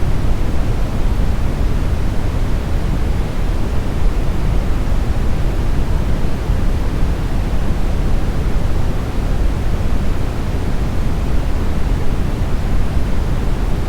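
Steady smoothed brown noise: a constant, even hiss weighted heavily toward the low end, deep and rumbling with little treble, unchanging throughout.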